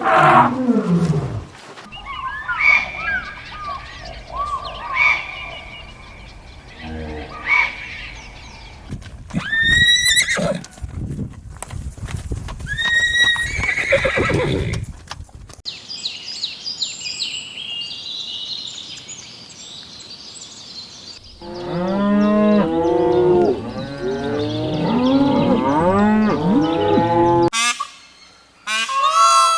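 Farm animal calls in a series of short clips cut one after another. It opens with a call falling steeply in pitch, then brings assorted shorter calls, high chirps in the middle, and near the end a fast run of many overlapping calls that breaks off suddenly.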